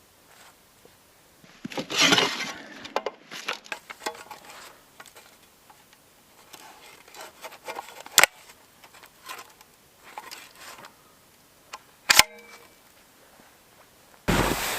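A compact shovel being handled and assembled: rustling, scattered small clicks, and two sharp metallic clicks as its parts snap into place, the second with a brief ring. A sudden loud rush of noise comes in near the end.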